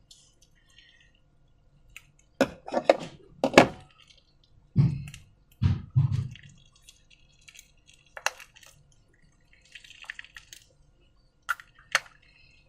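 Sticky, wet slime being squished and pulled, making sharp clicks and crackles, then a few deeper squelching plops in the middle, and a few single clicks near the end.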